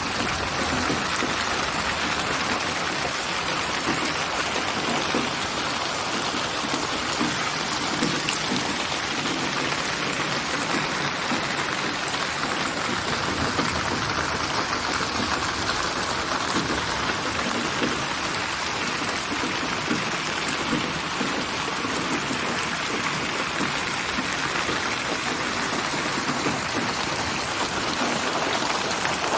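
Steady rain falling: an even, continuous hiss of raindrops on a surface.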